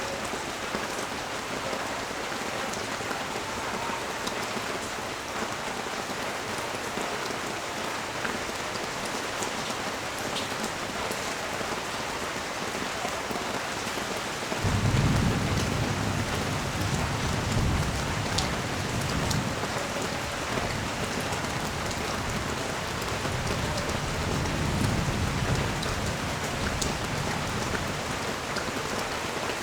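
Steady rain hissing down. About halfway through, a low rumble of thunder comes in and rolls on for roughly ten seconds, swelling a few times before it fades.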